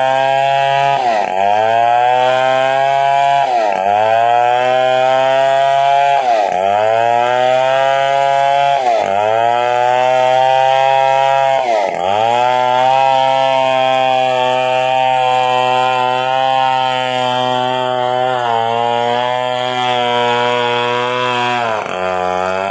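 Stihl 070 two-stroke chainsaw running at high revs, ripping lengthwise through a coconut palm trunk. Its pitch sags briefly and recovers about every two and a half seconds in the first half, then holds steady, with a drop near the end.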